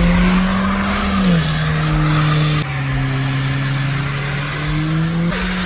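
Car engine held at high revs during a burnout, over the steady hiss of spinning tyres; the engine pitch dips about a second in and steps back up near the end.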